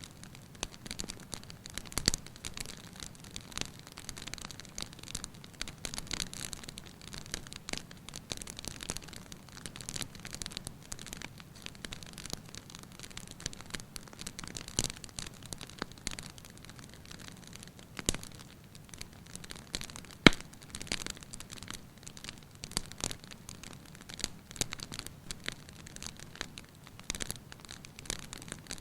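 Fire in a fireplace crackling steadily, with a few sharper pops, the loudest about two-thirds of the way through.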